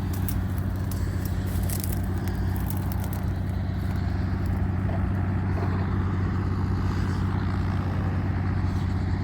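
Helicopter running on the ground before take-off: a steady drone with an even low hum. Some crackling on the microphone in the first two seconds.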